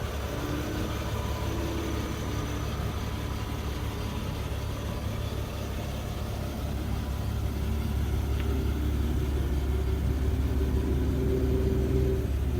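1998 Mercedes C280's engine idling steadily with the air conditioning switched on and its newly replaced AC compressor working. The low hum grows slightly louder about seven seconds in.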